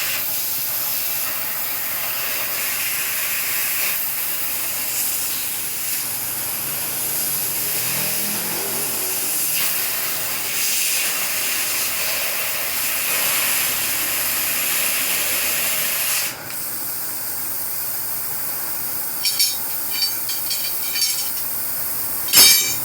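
Compressed air hissing steadily from an air line while a tyre is inflated. The hiss cuts off sharply about 16 seconds in and is followed by a few short clicks and taps.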